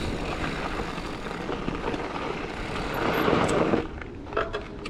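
Riding noise from a mountain bike on a dirt trail: wind buffeting a helmet-mounted camera over the rumble of tyres and the bike. It swells about three seconds in, then drops away sharply near the end.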